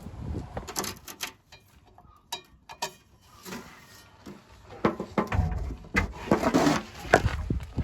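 Irregular clinks, knocks and rattles of tools and metal parts being handled, sparse at first and busier in the second half.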